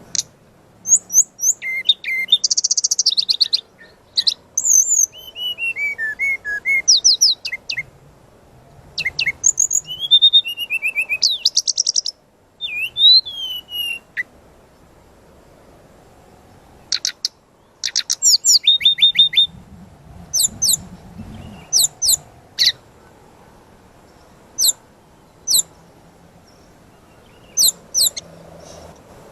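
Songbird singing a fast, varied song of high chirps, down-slurred whistles and buzzy trills in dense bursts, thinning out to separate sharp chirps in the second half. It is a 'gacor full isian' master song recording: full-voiced singing packed with borrowed phrases, used to train caged songbirds.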